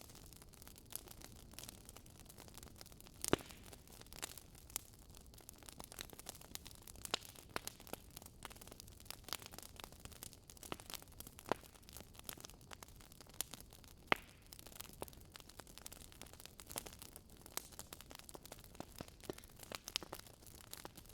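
Wood fire crackling: a soft steady hiss with irregular sharp pops and snaps, two louder pops about 3 seconds and 14 seconds in.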